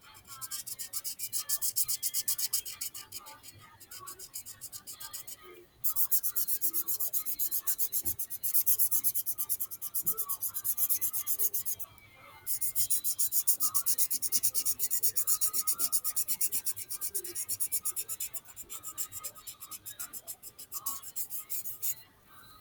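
Rapid back-and-forth colouring strokes scratching on paper, many strokes a second, in long runs with two short pauses.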